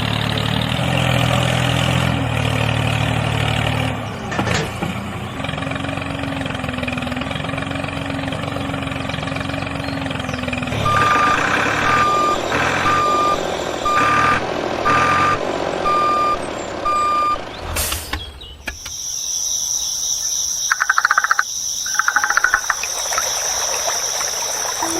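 Vehicle engine running, then a reversing alarm beeping in a string of evenly spaced beeps. After a break, a steady high-pitched whine takes over.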